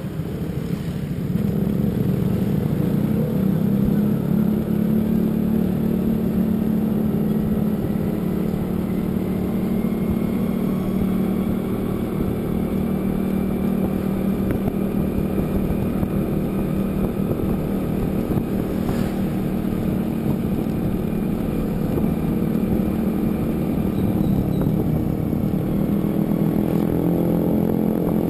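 Motor vehicle engine running steadily at cruising speed, a continuous drone that holds nearly the same pitch throughout.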